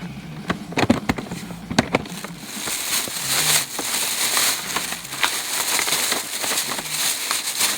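Rustling and crinkling of sheet material, such as a cover, being handled, with scattered knocks and clicks at first and then a steady crackling from about two and a half seconds in.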